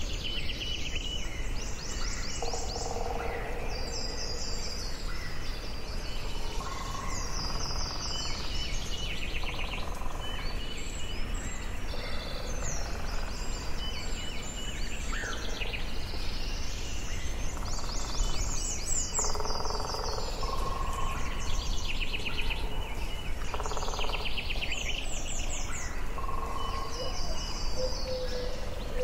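Forest ambience: several birds singing and chirping, with quick high trilled phrases repeating every second or two and some lower, shorter calls, over a steady low background rumble.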